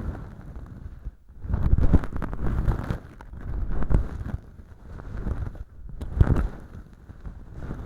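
Bonten feather ear pick rubbing and scratching inside an artificial ear canal lined with fluffy velcro and packed with fake dry earwax, giving a close, crackly rustling. It comes in uneven swells, about four strokes that rise and fade, with short lulls between them.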